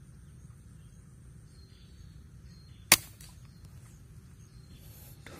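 A single sharp air rifle shot about three seconds in.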